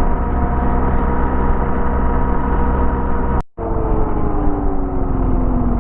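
BMW R1250GS boxer-twin motorcycle engine running at road speed with rumble from the ride. The sound cuts out for a moment about three and a half seconds in, then the engine note falls steadily as the revs drop.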